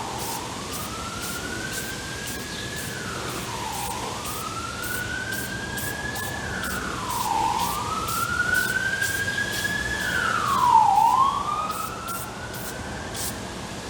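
Emergency vehicle siren in a slow wail: a tone that climbs gradually and drops back sharply, about every three and a half seconds, growing louder to a peak about three-quarters of the way through, then fading.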